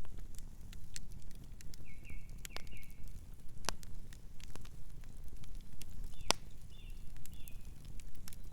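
Campfire burning: wood crackling with scattered sharp pops, two of them louder, over a low steady rumble of the flames. Short high chirps come in two brief clusters, about two seconds in and again just after six seconds.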